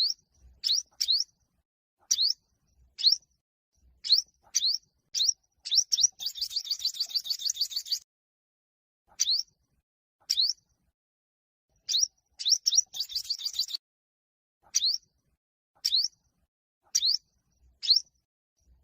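Olive-backed (yellow-bellied) sunbird singing its aggressive fighting song: short, sharp rising notes repeated about once a second, broken twice by a fast rattling trill of about two seconds.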